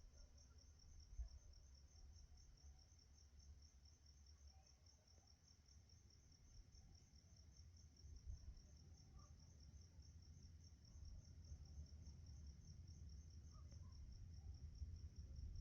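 Crickets chirping faintly in a steady, rapid, evenly pulsed high trill over a faint low rumble.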